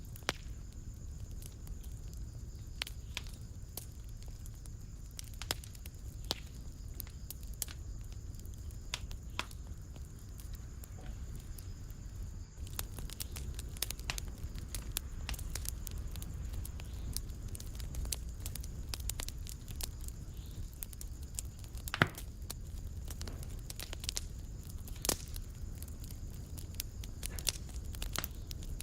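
Wood fire in a fireplace crackling, with scattered sharp pops over a low steady rumble. The crackles grow busier about halfway through, and one loud pop comes about three-quarters of the way in.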